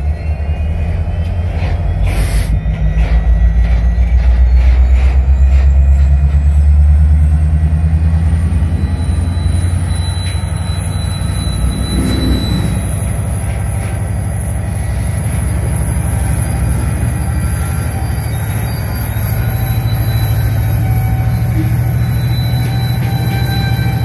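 Diesel freight train passing close by: a loud, deep rumble from the locomotive and the rolling covered hopper cars, with thin, high-pitched wheel squeal running through it.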